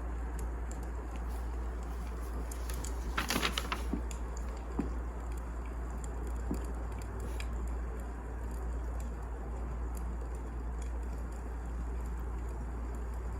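Wood fire crackling: a steady low rumble under scattered sharp pops, with a quick flurry of crackles about three seconds in.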